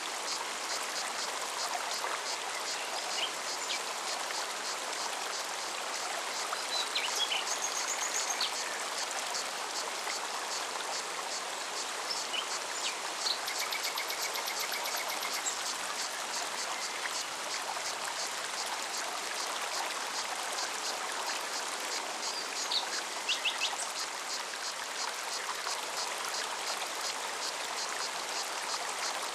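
Mountain stream running steadily, with a fast, even cicada pulse high above the water for much of the time and a few short bird chirps scattered through it.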